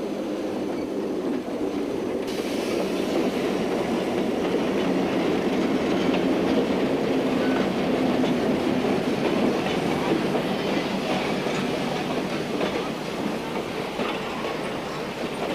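Diesel-hauled train running along the track: a steady rumble and rattle of the cars and wheels on the rails, a little louder around the middle and easing toward the end.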